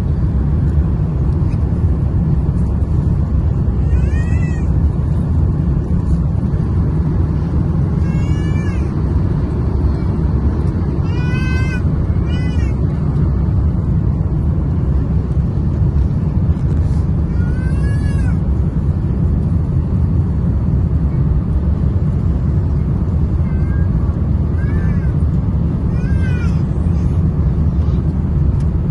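Steady loud rumble of airliner cabin noise from engines and airflow on the approach to landing. Over it come several short high cries, each rising and falling, every few seconds.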